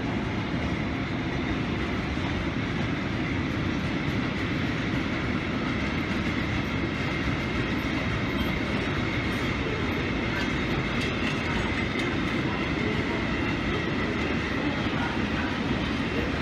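Freight train of open wagons rolling past at speed, a steady rumble of wheels on rail with some clickety-clack. A faint high squeal rises from the wheels from about halfway through.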